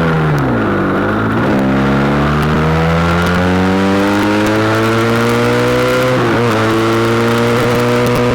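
SBM 400 motorcycle engine under way. The revs fall in the first second, then climb steadily for several seconds, dip briefly about six seconds in, and hold steady near the end.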